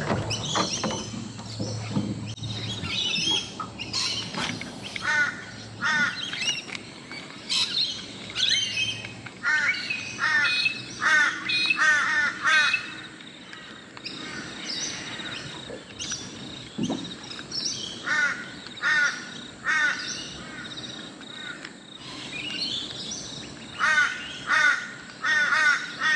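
Wild birds calling: one bird gives several runs of quick, repeated calls, four or five to a run, while other birds chirp more faintly in between.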